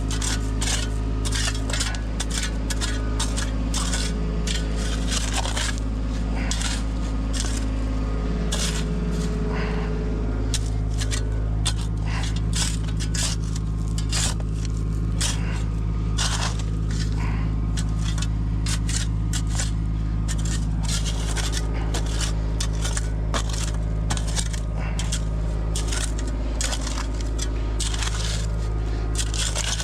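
Kubota compact excavator's diesel engine running steadily, with many short scrapes and clatters of the bucket digging into and moving dirt, gravel and stones.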